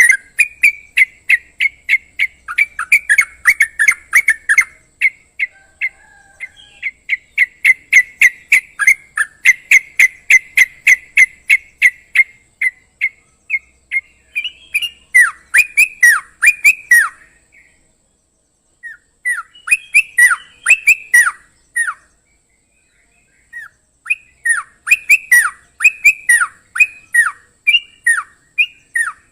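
Yellow-vented bulbul (trucukan) singing: fast runs of loud, repeated chirping notes, about four to five a second, breaking off briefly twice. Later phrases are made of sharp downward-slurred notes.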